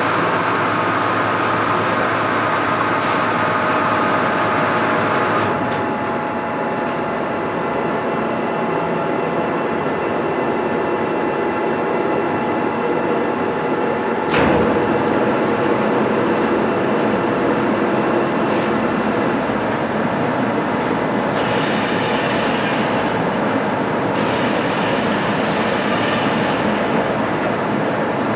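Metalworking machine tools running steadily with a constant mechanical drone and whine. The sound changes abruptly about five seconds in and again halfway through, where there is a sharp click.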